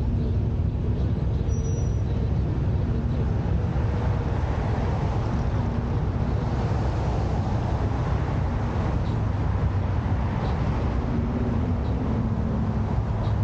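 Car engines idling at a standstill: a steady low rumble with faint engine tones, and traffic noise swelling and fading through the middle.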